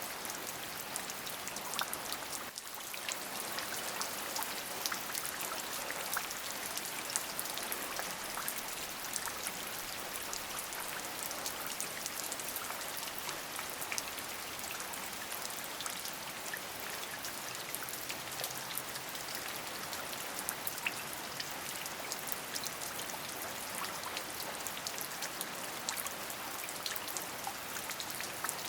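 Steady rain, with many sharp ticks of individual drops striking a surface over an even hiss. The level dips briefly about two and a half seconds in.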